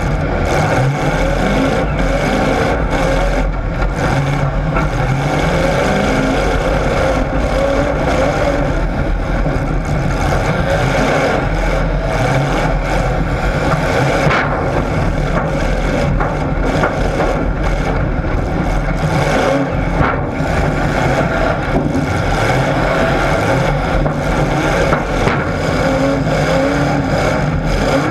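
Racing engines running and revving throughout, their pitch rising and falling.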